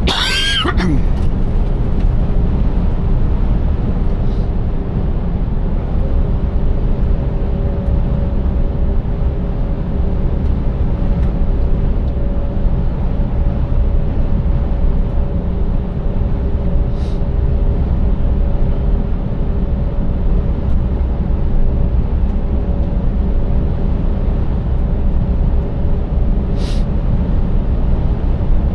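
Scania 590S V8 truck driving on the road, its engine and running gear giving a steady deep rumble with two steady humming tones, a second tone joining about six seconds in. A brief falling whistle-like sweep at the very start and a few faint ticks later on.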